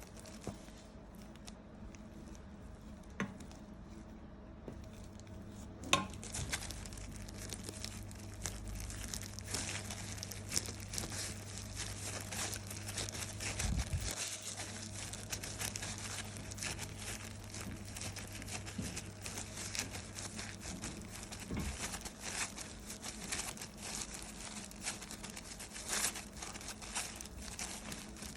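Dense crinkling and crackling that starts about six seconds in, over a steady low hum.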